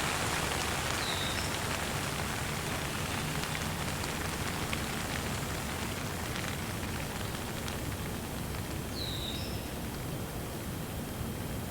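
Steady rain falling, with the odd drip, and a single bird giving a short chirp twice: about a second in and again some eight seconds later. The rain eases slightly over the stretch.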